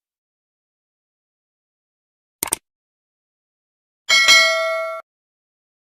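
Two quick taps, then a single loud struck-metal clang about four seconds in that rings with several steady bell-like tones and stops abruptly after about a second.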